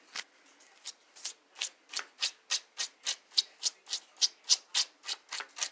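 Comb raked repeatedly through a toy horse's synthetic mane, spreading marker-ink dye: short scratchy strokes, a few spaced out at first, then a steady run of about three to four a second.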